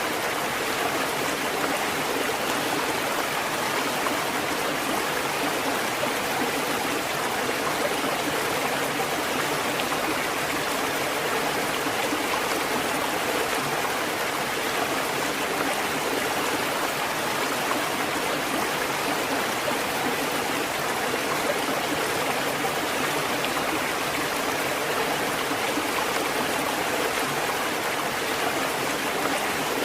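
A water fountain running, with a steady flow and splash of water.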